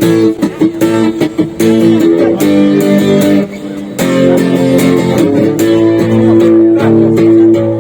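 Guitar strumming chords in an instrumental passage between sung verses of a song, the strums coming in a steady rhythm with a brief softer moment partway through.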